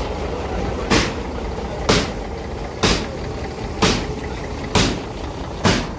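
Six sharp, heavy knocks, evenly spaced about one a second, over a steady low engine rumble.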